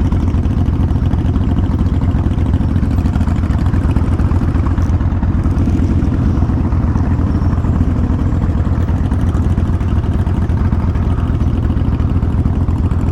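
Kawasaki Vulcan 1500 V-twin motorcycle engine running steadily, heard close from the rider's helmet microphone as a dense, even low pulsing.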